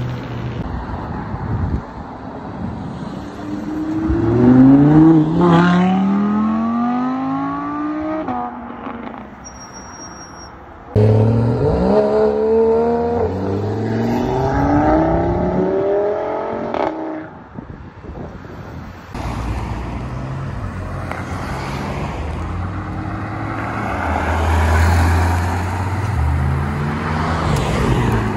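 Performance cars accelerating hard away one after another, engines revving up in repeated rising sweeps as they pull through the gears, with abrupt cuts between clips and a steadier engine rumble in the last part.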